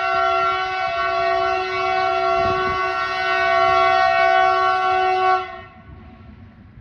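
Electric locomotive horn sounding one long, steady blast that cuts off sharply about five seconds in, leaving the low rumble of the passing train.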